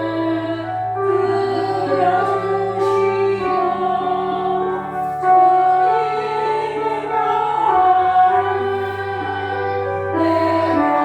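Slow church music with singing: long held bass notes that change every few seconds under a slowly moving melody.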